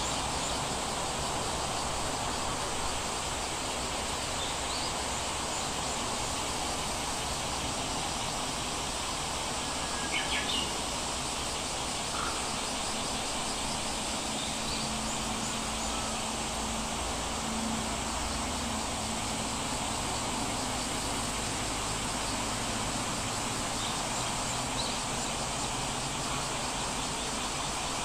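Steady outdoor nature ambience, an even hiss, with a few short bird chirps scattered through it; the clearest chirp comes about ten seconds in.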